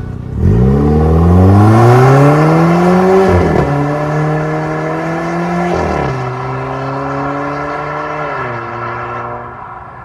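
Volvo V60 B5's 2.0-litre turbocharged four-cylinder exhaust, through an MS-R valved cat-back, accelerating hard. The pitch climbs steeply, drops at an upshift about three and a half seconds in, climbs more slowly and drops again at about six seconds, then steps down once more near the end.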